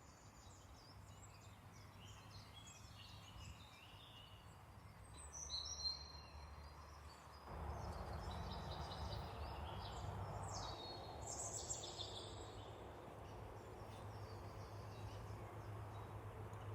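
Small birds chirping and singing in quick repeated calls, faint, over a steady low background hum that grows louder about halfway through.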